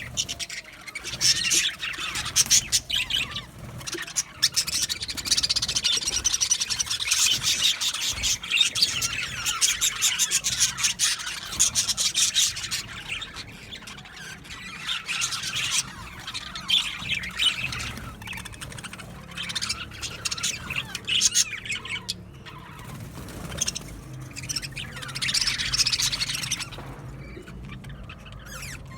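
A colony of budgerigars (budgies) chattering in an aviary: many overlapping high-pitched chirps, warbles and squawks, busiest in the first two thirds and thinning out near the end.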